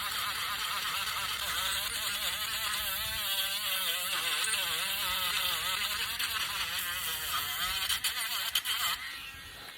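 Electric sander running against wood, its motor pitch wavering up and down as it is pressed and moved, then stopping about nine seconds in.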